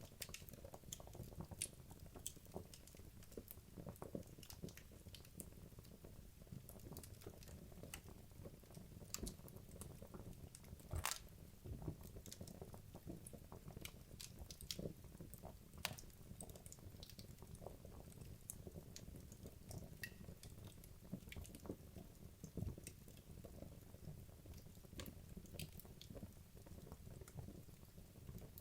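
Wood logs burning in a fireplace: irregular crackles and pops over a low rumble of flame, with one louder pop about eleven seconds in.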